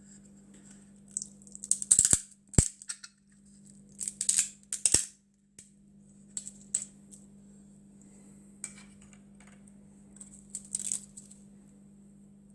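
PLA backing layer (raft) being torn off a freshly 3D-printed part: irregular bursts of crackling with sharp plastic snaps, the loudest around two seconds in and again around four to five seconds in. A steady low hum runs underneath.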